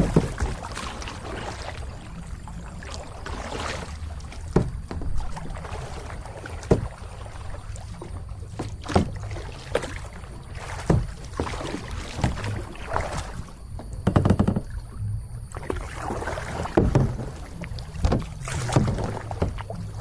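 Kayak paddle strokes dipping and splashing in the water, about one every two seconds, over a steady low rumble.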